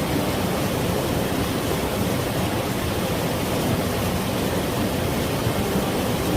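Mountain stream water flowing and rushing over rocks in a steady, even wash.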